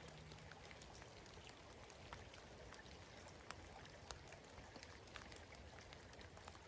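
Light spring rain, faint: scattered single raindrops ticking at irregular moments over a soft steady patter.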